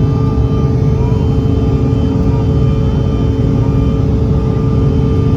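Jet engines of a regional airliner heard from inside the passenger cabin: a steady low rumble with a few steady whining tones over it.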